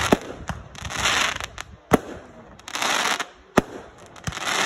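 Fireworks going off: hissing rushes of shells launching, with several sharp bangs of bursts between them, the loudest about two seconds and three and a half seconds in.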